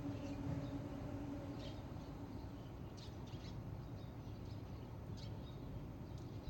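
Birds giving short, scattered chirps, about five in all, over a steady low background rumble. A faint steady hum fades out about a third of the way in.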